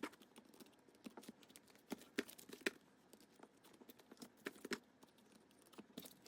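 Faint, irregular clicks and taps of ring binders and plastic card pages being handled, with a few sharper clicks about two seconds in and near the middle.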